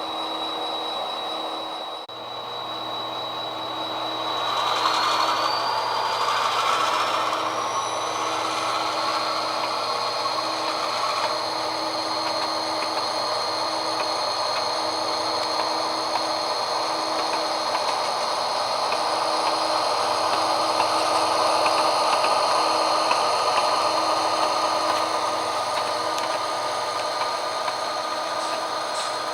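HO scale GP38 model diesel locomotive running on the layout: a steady mechanical whir with a high whine that rises in pitch about five seconds in and then holds.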